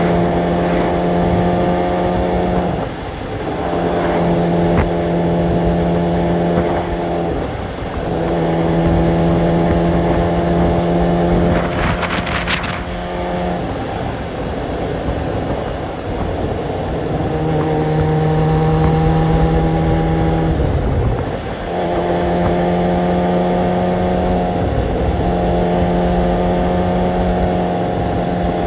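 Kawasaki sport motorcycle's engine running at steady revs while riding, over wind rumble. The engine note holds level for several seconds, then briefly dips and picks up again, a handful of times. A short rushing sound comes about twelve seconds in.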